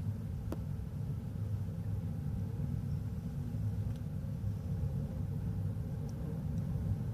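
Low, steady rumble and hum of the Shin Nihonkai Ferry Azalea's engines and machinery, with a faint click about half a second in.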